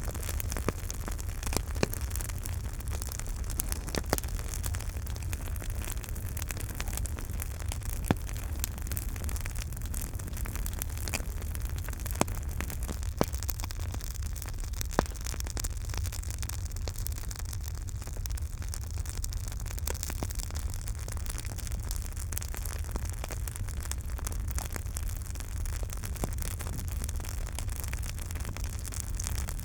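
Campfire burning: a steady low rumble and hiss with frequent small crackles and sharp wood pops, a few louder pops scattered through.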